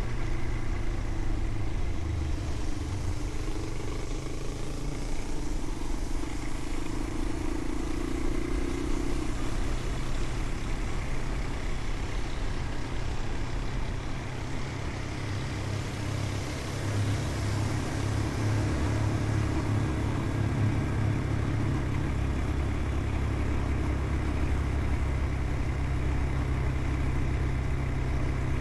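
A vehicle engine running steadily while driving, with continuous road and wind rumble and slow changes in engine pitch.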